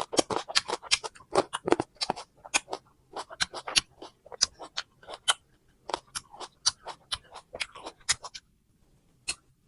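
Mouth chewing crunchy fresh fruit dipped in sauce: a quick run of crisp crunches, about three or four a second, that thins out near the end.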